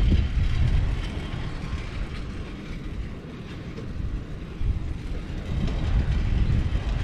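Wind buffeting a GoPro's microphone while riding a bicycle: a low, uneven rumble that eases off about three seconds in and builds again.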